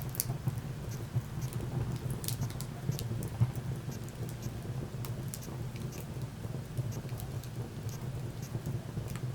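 Wood fire crackling in a fireplace: irregular sharp pops and snaps over a steady low rumble of the flames, with one louder pop about three and a half seconds in.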